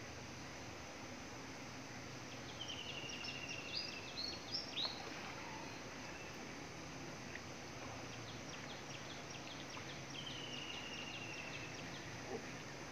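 Faint outdoor ambience: a bird gives a high falling trill about two and a half seconds in and again about ten seconds in, with a few short high chirps between, over a steady low background noise.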